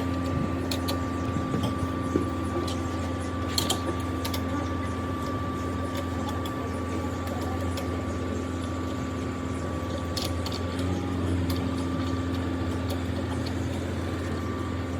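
A steady machine hum, with a higher whine that drops out about two thirds of the way through, and scattered light clicks and knocks of work on metal parts.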